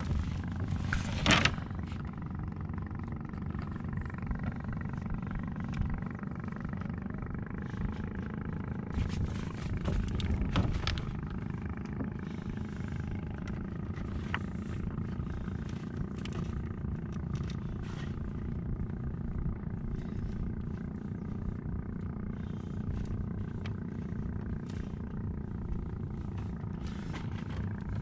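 Small fishing boat's engine running steadily, with a few short knocks about a second in and again around ten seconds.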